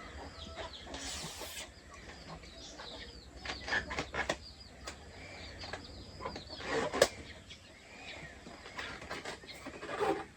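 A flock of chickens calling: many short, high, falling peeps and clucks, with scattered sharp clicks throughout.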